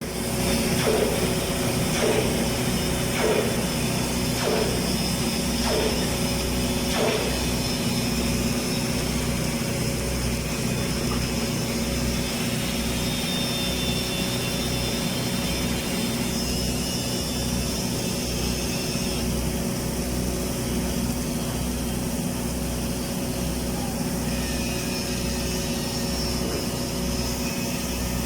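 Automatic girth welding machine running a filler pass: a steady mechanical hum, with six light knocks about a second apart in the first seven seconds.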